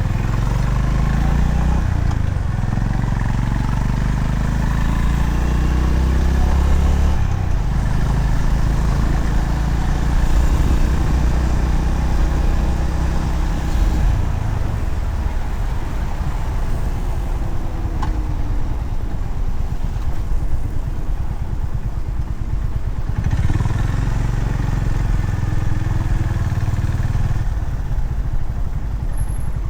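Honda CB350RS's air-cooled single-cylinder engine running while riding, its pitch rising through the revs and dropping back several times as it accelerates and shifts gear, over steady wind and road rush.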